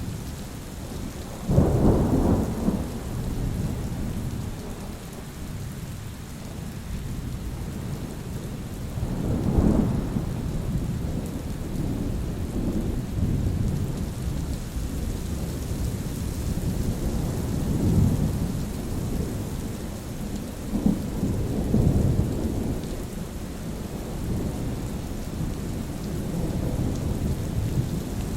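Steady rain with rolling thunder: a sharp thunderclap about a second and a half in, then several lower rumbles through the rest.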